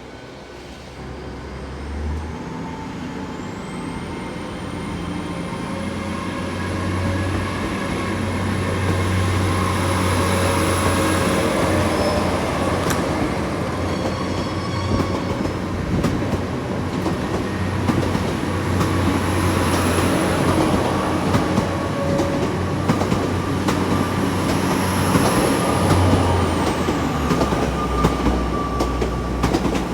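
Passenger train moving through the station: low running hum under a high whine that rises in pitch over the first few seconds, holds steady, and falls away near the end.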